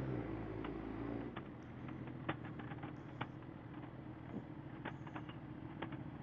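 Motorcycle engine idling steadily at low revs, with scattered light clicks.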